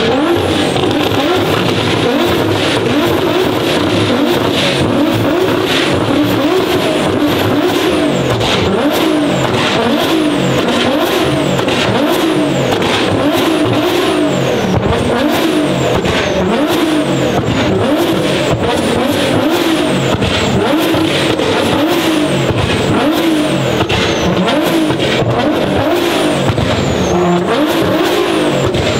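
A high-performance car engine revved over and over, its pitch rising and falling in quick, repeated blips without pause.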